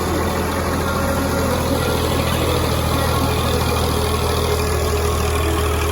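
Tractor engine running at a steady, even speed with a low drone.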